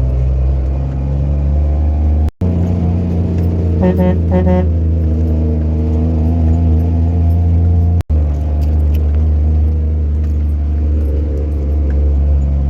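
Truck engine running with a steady low drone, heard from inside the cab, with light rattling. A short, pulsed tonal sound comes about four seconds in, and the sound cuts out for an instant twice.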